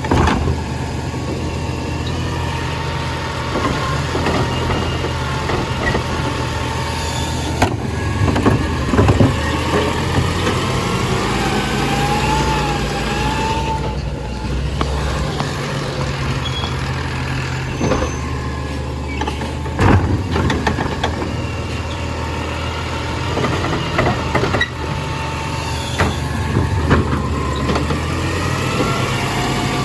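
Garbage truck collecting compost, its diesel engine droning steadily and shifting in pitch, with a wavering whine and several sharp knocks and clanks.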